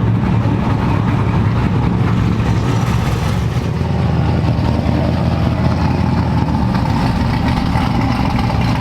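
Truck engine idling steadily, a low rumble with no revving.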